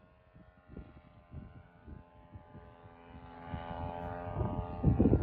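A motor's steady drone, growing louder over the last two seconds, with gusty low rumbles of wind buffeting the microphone.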